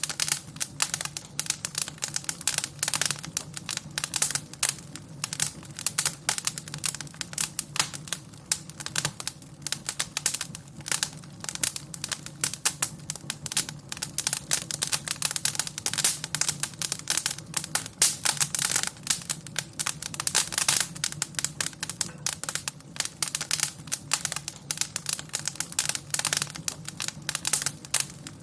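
Wood fire crackling in a fireplace: many quick, irregular pops and snaps over a low, steady rumble.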